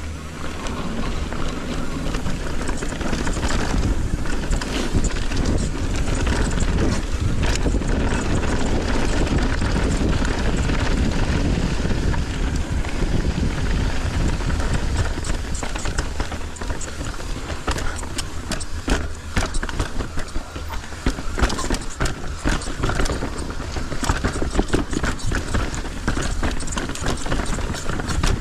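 Mountain bike descending a rough dirt trail: a steady rumble of tyres and wind noise, with the bike clattering and knocking over rocks and roots, the knocks coming thicker in the second half.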